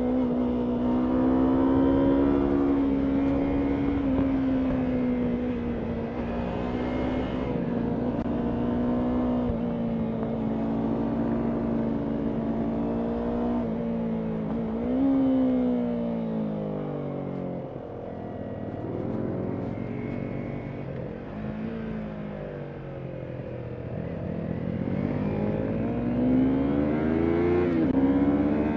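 Yamaha MT-03 motorcycle engine running on the road, held at a steady pitch for a while. About halfway through the revs fall away, then rise again near the end.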